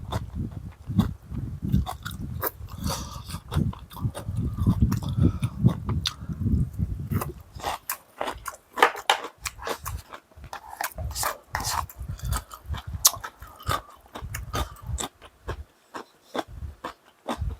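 A person eating close to the microphone: chewing and biting with many sharp clicks and crunches, and heavy low rumbling through the first seven seconds or so.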